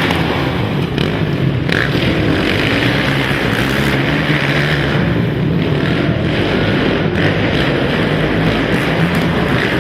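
Racing ATV (quad) engines running hard, a loud continuous engine noise whose pitch shifts up and down as the riders work the throttle.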